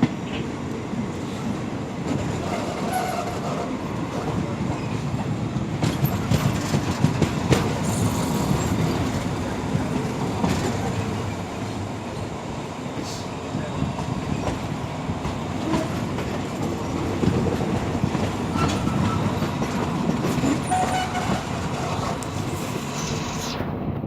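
A passenger train running on the rails, with a continuous rumble and steady clicking of its wheels over the rail joints.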